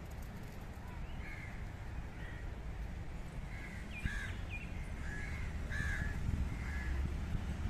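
Birds calling over and over, short calls about once a second, over a low steady rumble.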